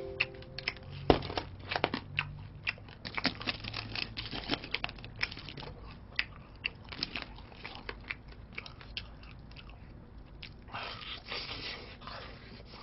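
Crispy fried chicken being bitten and chewed: an irregular run of crunches, thinning out after about eight seconds.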